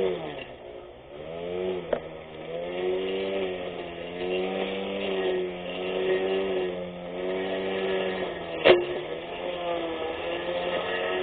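24V brushless electric grass cutter's motor running with a steady hum, its pitch sagging briefly about half a second in and recovering, then wavering a little as the blade works. Two sharp clicks, one about 2 s in and a louder one near the end.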